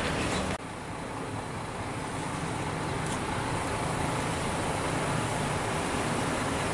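Steady low rumble of idling bus engines and traffic noise. The level drops abruptly about half a second in, then runs on evenly.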